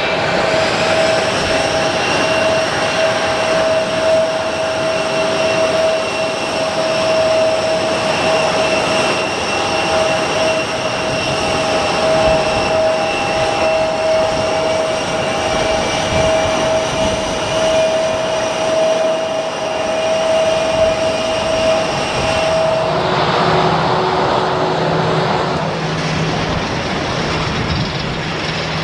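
Jet airliner engines running with a steady, unchanging whine over a loud rush. Near the end the whine drops away and a lower hum takes over.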